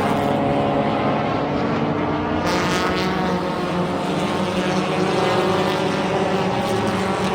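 Several front-wheel-drive race cars' engines running together at speed, a steady drone of overlapping engine tones, with a brief brighter swell about two and a half seconds in.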